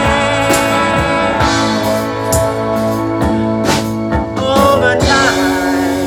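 Live rock band playing: electric guitar and chords over a steady drum beat, the drums dropping out about five seconds in and leaving sustained chords ringing.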